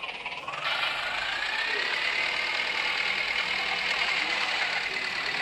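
Tractor diesel engine running hard, its pitch sagging at the start and climbing back up over the next couple of seconds, then holding steady: the engine lugging under load and recovering.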